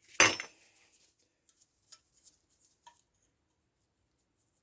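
One short, sharp scrape about a quarter second in, then a few faint ticks and clicks: hand-cleaning of a Stihl MS170 chainsaw, clearing out chips and debris.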